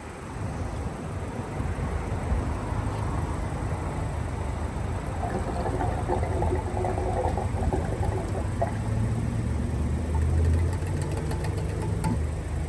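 2014 Toyota 4Runner's 4.0-litre V6 running with a steady low drone.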